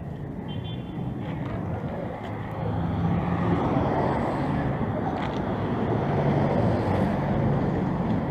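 Street traffic: a motor vehicle's engine running close by, growing louder about three seconds in.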